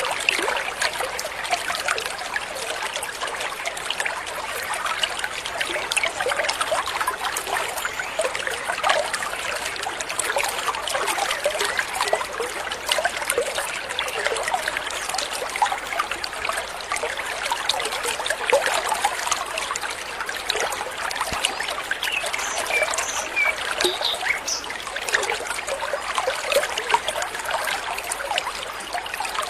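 A small stream running and trickling steadily over stones, a continuous babbling of water. A few short, high bird chirps sound faintly over it late on.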